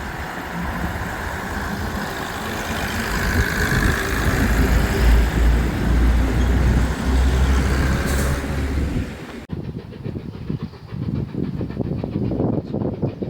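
A train running close by: a loud, dense rumble with hiss. About nine and a half seconds in it cuts abruptly to a quieter, uneven train sound.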